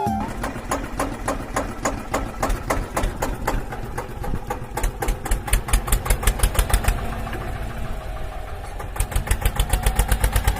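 Engine chugging like a small tractor's: a steady run of thumps, a few a second, growing louder and quicker around the middle and again near the end.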